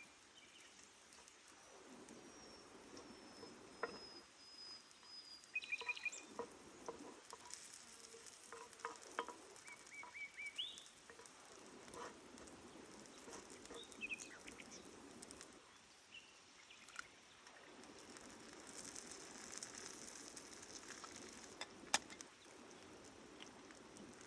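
Faint campfire cooking sounds: scattered small crackles, clicks and taps over soft sizzling, with one sharper click near the end. A few brief bird chirps and a slow falling whistle sound from the forest.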